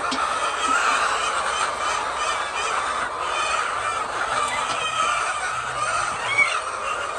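A large flock of chickens clucking and calling all at once, a steady din of many overlapping bird voices.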